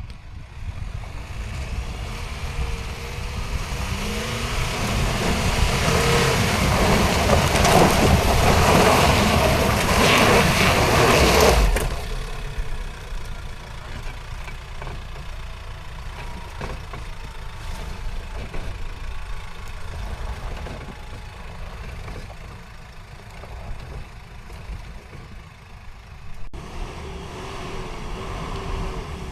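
Off-road vehicle driving on a rough mountain track. The engine works hard under load with a loud rushing noise that builds for about ten seconds and drops off suddenly about twelve seconds in. After that the engine runs more quietly.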